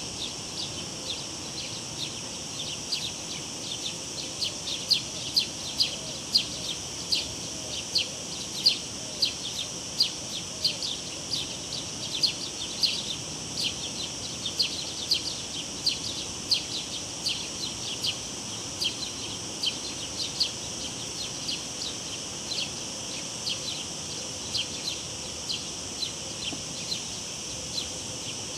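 Cicadas keeping up a steady high drone, with many short, sharp high chirps repeating irregularly a few times a second, over a low, even rush of river water.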